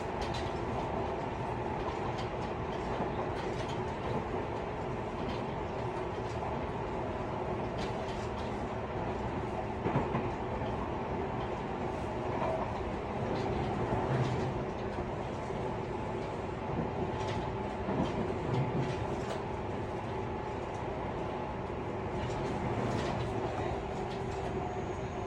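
Interior running noise of a Tobu 50090 series electric train's motor car at speed: a steady rumble with a constant hum and scattered clicks and knocks from the wheels and car body.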